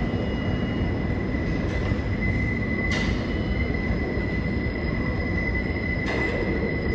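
A New York City subway train running through the station with a steady heavy rumble and a continuous high-pitched wheel squeal that grows stronger a few seconds in. Two sharp clicks come about 3 and 6 seconds in.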